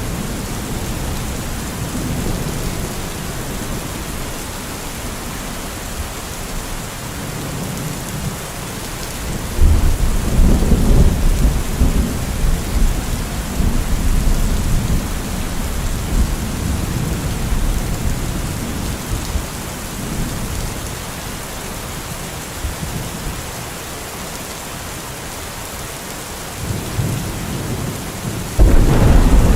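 Steady rain with rolling thunder: a loud thunderclap about ten seconds in rumbles on for several seconds, and another sharp clap comes near the end.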